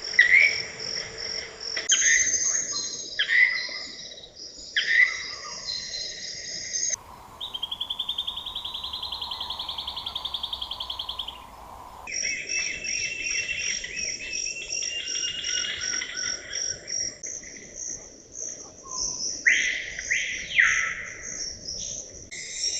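Tropical rainforest ambience: insects buzzing steadily at a high pitch, with birds calling repeatedly over it. In the middle stretch a loud, rapidly pulsing insect call takes over for about five seconds. The background changes abruptly several times as one recording gives way to the next.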